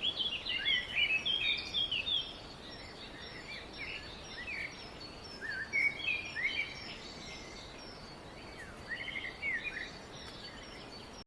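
Several small birds chirping in quick flurries of short, sweeping notes, in three bouts, over a steady background hiss.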